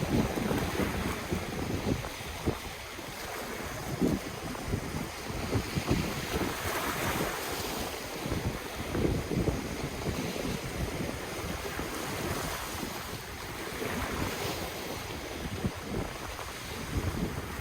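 Ocean waves washing on the shore in surges, with wind buffeting the microphone as low rumbling gusts.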